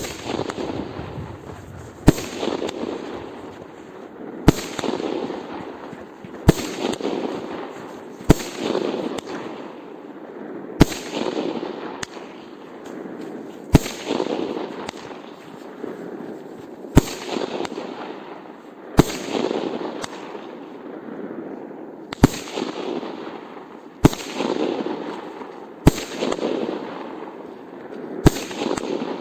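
Aerial fireworks bursting one after another, with a sharp bang about every two seconds, each followed by a longer rumbling wash of sound.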